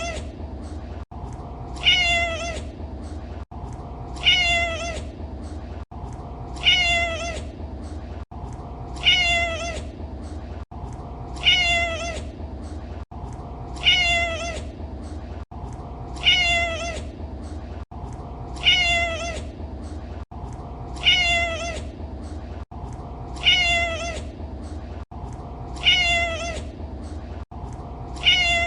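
A domestic cat's short meow, falling in pitch, repeated the same way about every two and a half seconds, twelve times in all, over steady low background noise.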